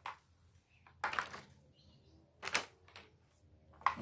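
Plastic blocks of a toy whack-a-mole board being fitted into their holes, giving four short, sharp plastic clicks about a second apart.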